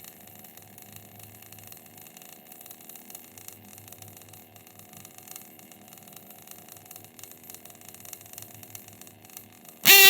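Ielasi 28-7 engine fitted with a boat tuned pipe, idling quietly with a steady whir and a faint low hum. A much louder sound with a sweeping pitch starts suddenly right at the end.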